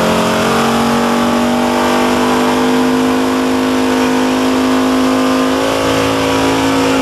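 Muscle car engine held at high, steady revs during a burnout, its pitch still climbing slightly at the start and then staying nearly constant.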